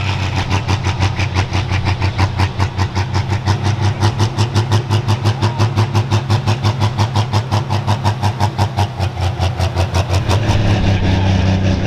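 Tractor engine idling with a steady low hum and a strong rhythmic pulsing, about five pulses a second, which fades out about ten seconds in and leaves a steady run.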